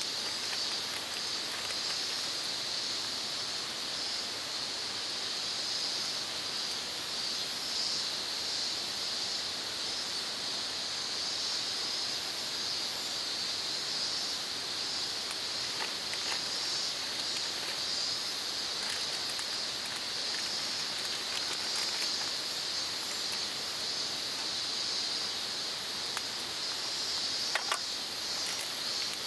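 Steady chorus of insects chirring, with a higher trill pulsing about one and a half times a second throughout. A couple of light clicks stand out briefly, the sharpest near the end.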